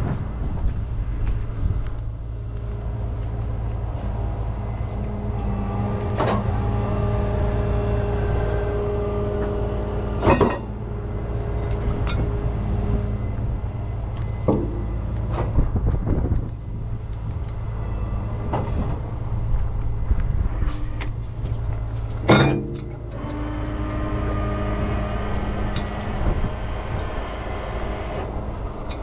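Heavy vehicle engine running steadily under load, with a higher tone that comes and goes above it. Scattered metal knocks and clanks, the loudest about ten and twenty-two seconds in.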